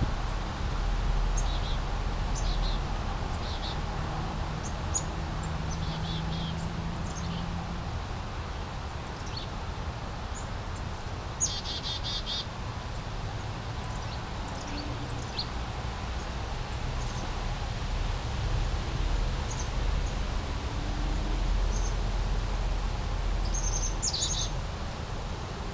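Small brook flowing steadily, with small birds chirping on and off above the water sound, including a quick run of chirps a little before halfway and another near the end.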